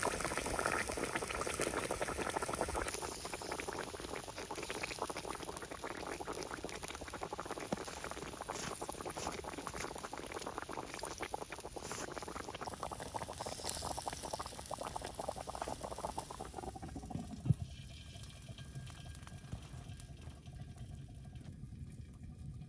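Sizzling and crackling of a campfire with food cooking over it: a dense, steady hiss full of small pops. About seventeen seconds in it gives way to a quieter low rumble, with one sharp knock.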